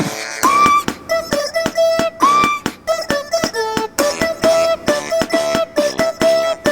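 Instrumental music played on squeeze rubber chickens: short squeaky pitched notes, some sliding up into a held squeal, over a steady quick beat of drum-like clicks and claps.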